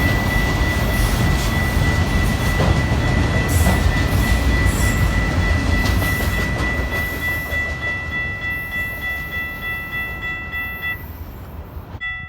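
A train passing at close range, its heavy low rumble fading away after about seven seconds. Over it a steady high ringing runs throughout, typical of grade-crossing warning bells.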